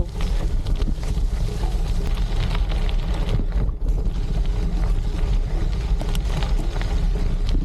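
Trek Checkpoint gravel bike riding along a gravel trail: the 40 mm tyres crunch and rattle over the gravel with scattered small clicks, over a steady rumble of wind buffeting the microphone.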